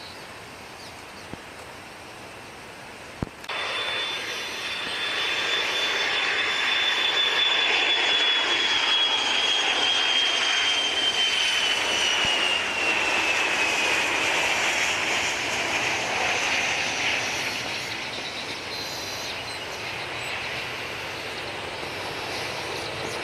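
Boeing 737-200 passing on its landing approach, its Pratt & Whitney JT8D low-bypass engines giving a loud jet rush with a high whine that slowly falls in pitch as it goes by. The sound cuts in abruptly a few seconds in, is loudest in the middle and eases toward the end.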